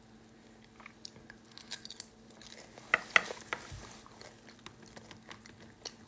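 A person eating breakfast, heard through a phone's microphone: chewing and small clicks, with a louder clatter about three seconds in, over a steady low hum.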